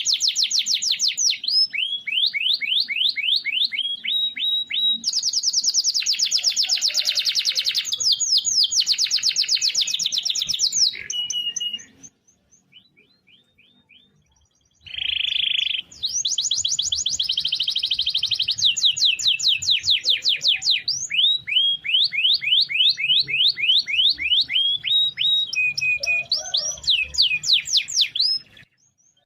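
Domestic canary singing long rolling trills of fast repeated notes, switching between several trill types, with a pause of about three seconds near the middle.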